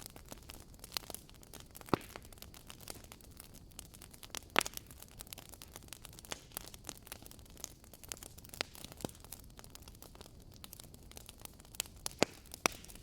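Wood fire crackling: irregular sharp pops and snaps over a low hiss, with a few louder pops about two seconds in, around the middle and near the end.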